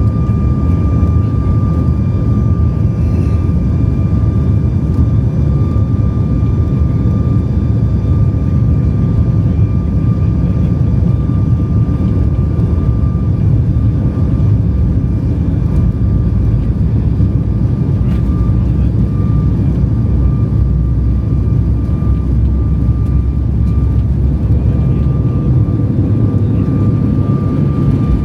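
Cabin noise of a Boeing 737 MAX 8 with its CFM LEAP-1B engines running: a steady loud low rumble with a thin steady whine held at one pitch above it.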